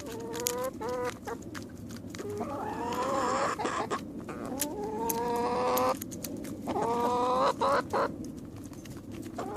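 Birds calling in rising, drawn-out tones, a few short calls and two long ones of a second and a half each, over many sharp taps of beaks pecking at a persimmon.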